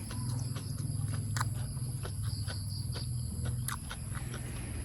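Eating sounds: a person chewing, with a few sharp mouth or utensil clicks, over a steady low hum.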